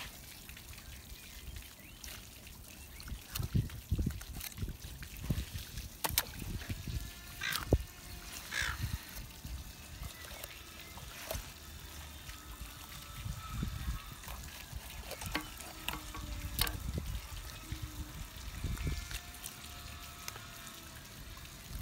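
Water running and trickling while a gummy shark is gutted with a sharp knife on a cleaning table, with irregular wet knocks, clicks and thumps from the knife and the handled fish. A few short honking calls sound now and then.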